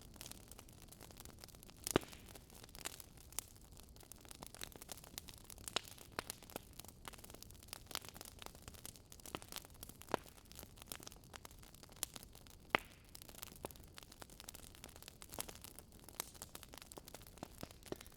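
Wood fire crackling: a soft steady hiss with many irregular sharp pops and snaps, a couple of louder pops standing out.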